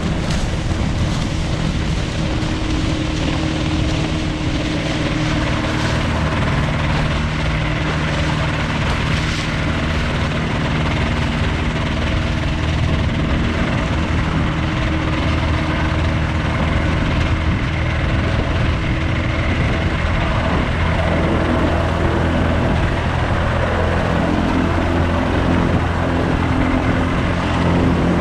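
Polaris FIB flying inflatable boat's engine and pusher propeller running steadily under power, with rushing air noise. The engine note shifts a little about three quarters of the way through.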